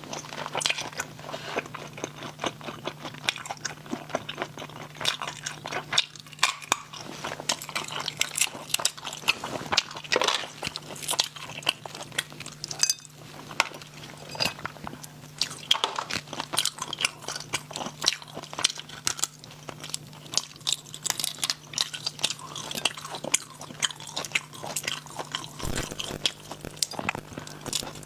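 A person eating close to the microphone: rapid, continuous crunching, biting and chewing. A faint steady low hum runs underneath.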